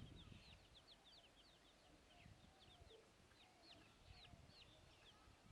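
Chicks peeping: many short, high peeps, several a second, faint throughout.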